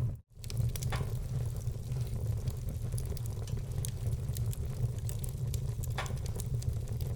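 Wood fire burning in a fireplace: a steady low rumble with scattered sharp crackles and pops. The sound cuts out for a moment just after the start.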